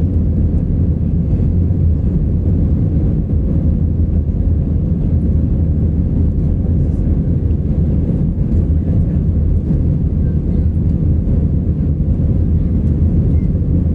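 Steady low rumble of an Airbus A319 in flight, engine and airflow noise heard inside the passenger cabin.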